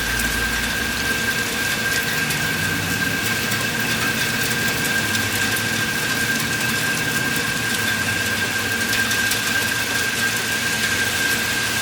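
Steady rain falling, with a constant high-pitched whine running through it.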